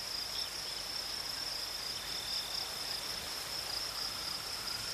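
Steady high-pitched insect chorus, cricket-like, with a few faint short bird-like notes over it.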